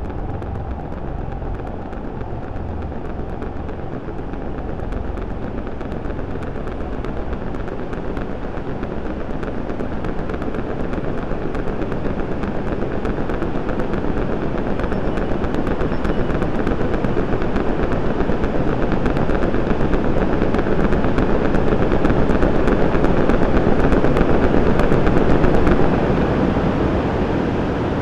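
Synthesized supernova sound effect from synthesizer noise generators: a dense crackling, rumbling noise that swells steadily louder, then drops back near the end.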